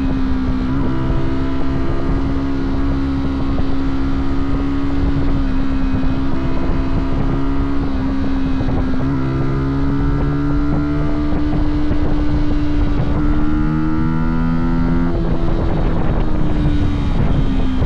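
Fantic Caballero 125 motorcycle's single-cylinder four-stroke engine running under way, its exhaust note mostly steady with a few brief dips. The revs climb, then drop suddenly and fall away before picking up again near the end, with wind rumbling on the microphone.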